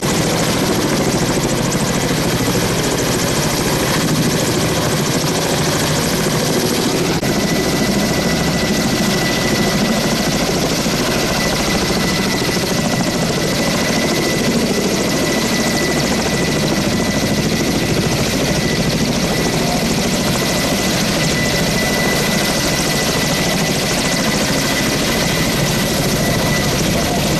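Helicopter running steadily close by, a dense, unchanging rotor and engine noise, with a faint steady high whine through most of it.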